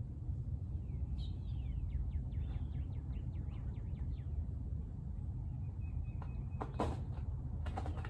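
Outdoor ambience: a small bird twittering in a quick run of chirps for a few seconds, over a steady low rumble. A couple of soft knocks near the end.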